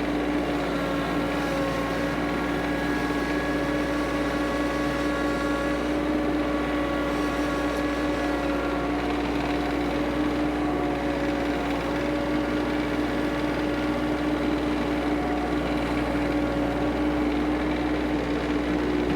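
Kioti CS2520S subcompact tractor's three-cylinder diesel engine running steadily at a constant speed, with a strong even hum and fainter higher whines that come and go.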